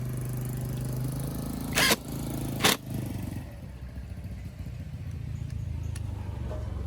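Off-road motorcycle engine running at a steady idle, with two sharp cracks about two and three seconds in.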